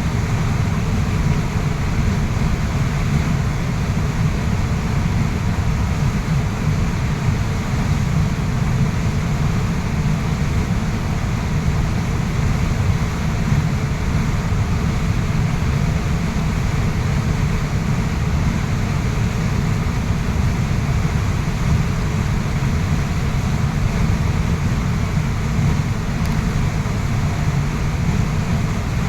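Waterfall's water rushing loudly and steadily without a break, the sound weighted deep and low.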